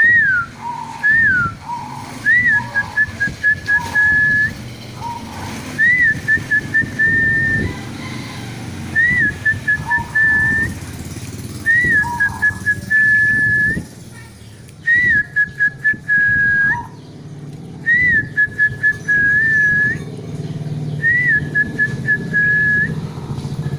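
Zebra dove (perkutut) singing. It repeats its phrase about every three seconds, seven times: an opening note that rises and falls, a run of short quick notes, then a longer held note. A steady low rumble lies underneath.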